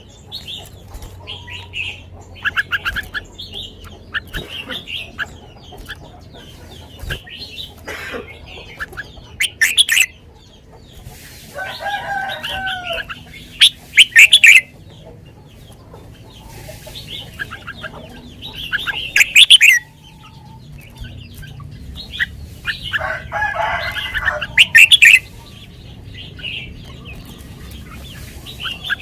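Red-whiskered bulbul singing: short, loud whistled phrases every few seconds, with softer chirps between them. Twice a lower chattering call from another bird joins in.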